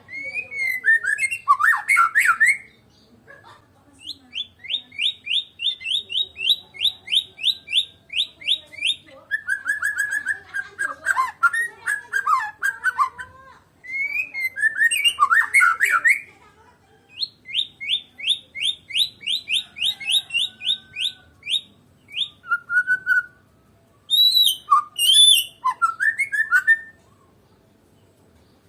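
A Medan-type white-rumped shama (murai batu) singing loud, varied whistled phrases broken by short pauses. The song includes two long runs of quickly repeated rising notes. The song stops shortly before the end.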